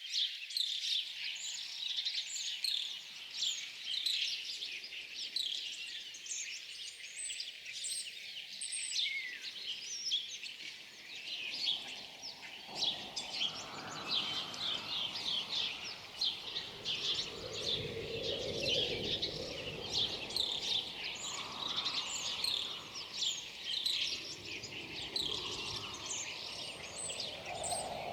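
A dense chorus of small birds chirping and twittering: many short, high calls overlapping without pause. From about halfway, a low rushing of wind swells and fades underneath.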